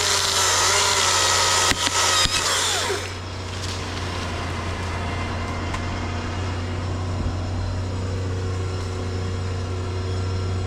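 A chainsaw running at high revs through a cut for about the first three seconds, its pitch dipping under load, then letting off. Under it and after it, the bucket truck's engine idles steadily.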